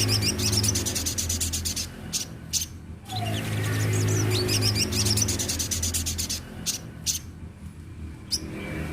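A sunbird singing a rapid, high-pitched twittering song in long phrases, with short pauses between them, over a steady low hum.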